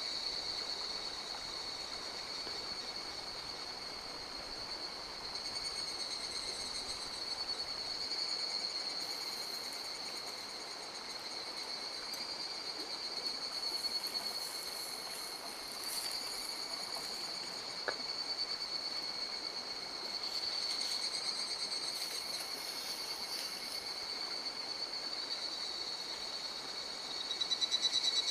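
A steady high-pitched chorus of calling insects over the rushing of a mountain stream. Near the end a frog starts calling in a loud, pulsing trill.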